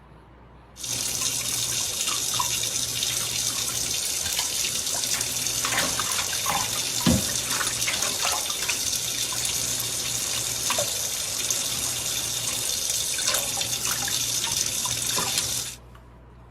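Steady running water, starting suddenly about a second in and cutting off suddenly near the end.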